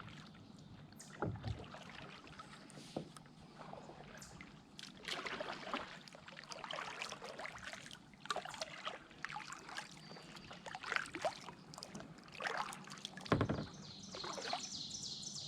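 Kayak paddle strokes dipping and splashing in the water, a swish every second or two, with a couple of dull thumps.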